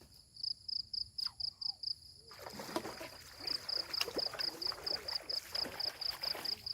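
An insect chirping in a steady high-pitched pulse, about five chirps a second. A little over two seconds in, a broad rushing, splashy noise comes up under it and stays.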